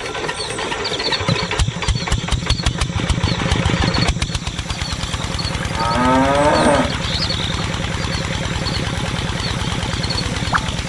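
Small diesel engine cranked into life, its chugging quickening as it catches and then running steadily at idle, driving a water pump. A cow moos once with a falling pitch about six seconds in.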